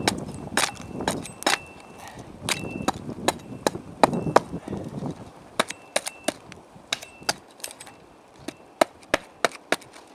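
Burning wood in a split-log Finnish candle fire crackling, with sharp irregular pops and snaps, some louder than others.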